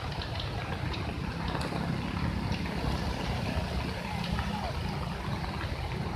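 Steady rushing of the flooded Lembah Anai waterfall overflowing, a continuous deep, even wash of water noise.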